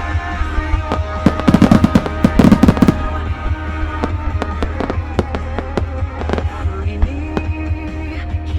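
Aerial fireworks bursting over a music soundtrack, with a dense rapid volley of sharp bangs between about one and three seconds in, then scattered single bangs.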